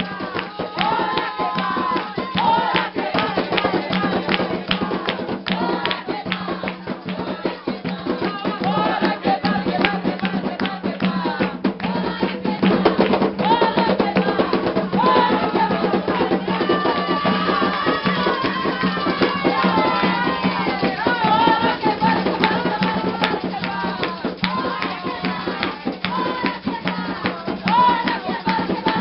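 Afro-Brazilian religious music for Xangô: steady, fast drumming with shaken rattles, and voices singing over it, the singing clearest in the middle stretch.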